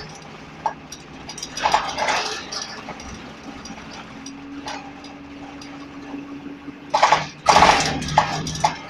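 DAF SB120 Cadet bus running, with a steady low hum and a steady whine that holds from about four to seven seconds in. A loud, noisy burst follows near the end.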